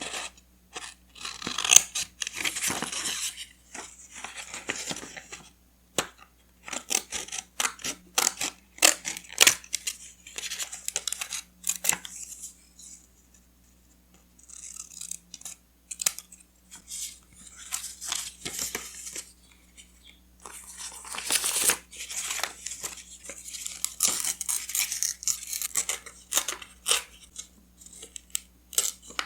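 Close-up paper crafting sounds: paper being handled, torn and cut, with rustling scrapes and sharp snips and taps coming in irregular bursts. There is a brief pause about halfway through.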